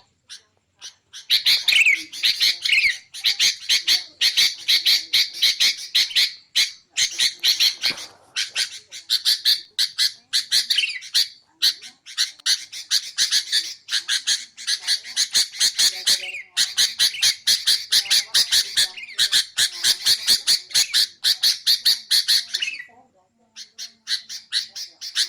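Sooty-headed bulbul giving rapid, harsh chattering calls in long runs, broken by short pauses and a longer gap near the end.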